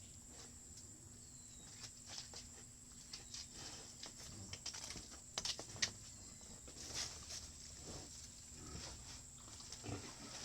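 Pigs grunting and snuffling, with scattered light clicks and knocks; two sharper knocks come a little past five seconds in.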